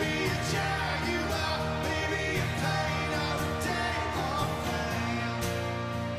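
Live rock band playing a song with singing, drums keeping a steady beat under guitars.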